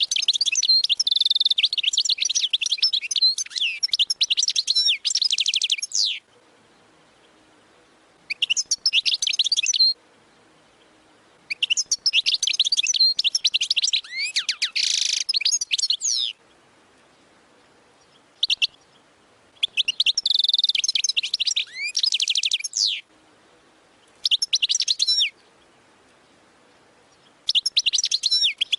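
European goldfinch singing in the 'wadani' style: phrases of rapid, high twittering with fast trills, each a second to six seconds long, broken by short pauses, and one very brief note a little after halfway.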